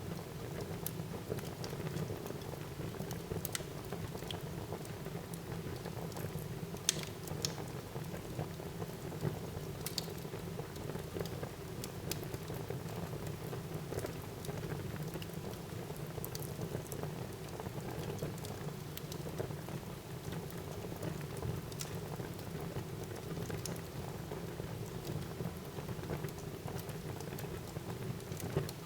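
Wood fire burning in a fireplace: a steady low rush of flame with scattered sharp crackles and pops, one louder pop about seven seconds in.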